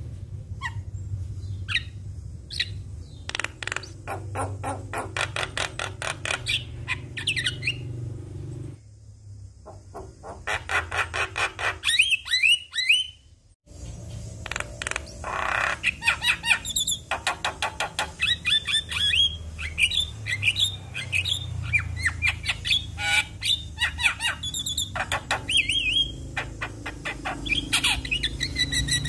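Javan mynas singing: fast harsh chattering and squawks mixed with upslurred whistled notes, over a low steady hum. The recording cuts off abruptly about halfway through and then resumes.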